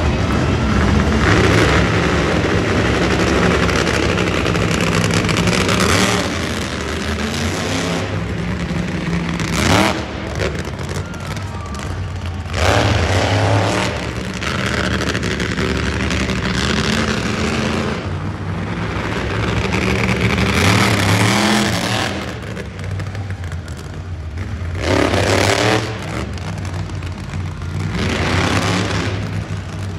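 Monster truck engine running hard, revving up and easing off in repeated surges every few seconds.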